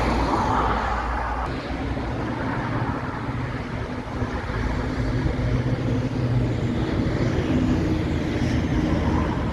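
Heavy truck's diesel engine running steadily with a low hum, its deepest tone dropping away about a second and a half in and the pitch shifting slightly later.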